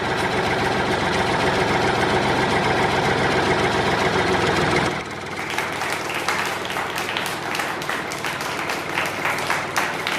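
Small motor of a homemade mini tractor model running steadily. About halfway through it drops in level and gives way to a quick irregular rattle of clicks.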